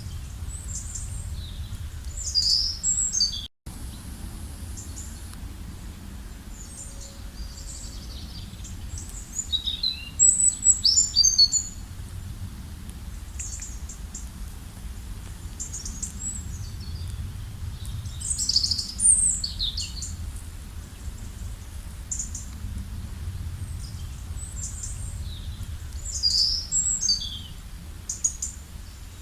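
Songbirds chirping and trilling in scattered clusters of quick high calls, loudest about ten seconds in, over a steady low background rumble. The sound drops out for a split second early on.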